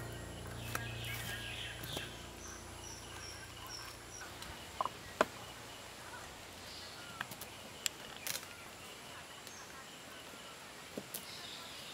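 Quiet ambience with a bird chirping a quick run of high notes a few seconds in, and scattered light clicks and taps.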